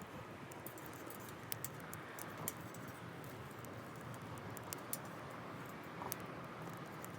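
Wood campfire crackling: irregular sharp pops and snaps over a low steady hiss.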